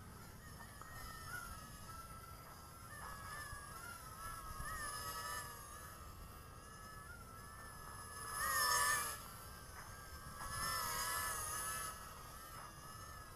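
Whine of the WLtoys Q272 mini hexacopter's six small motors and propellers in flight: a cluster of high tones that rise and fall together with the throttle, swelling louder twice near the end as the craft comes closer or climbs.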